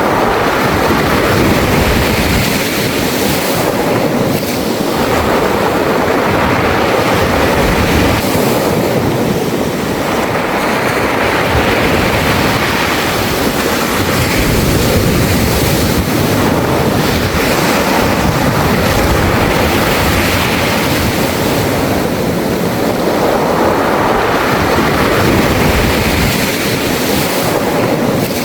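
Sea waves washing up a beach of smooth round pebbles and drawing back through the stones, the surf swelling and easing every several seconds.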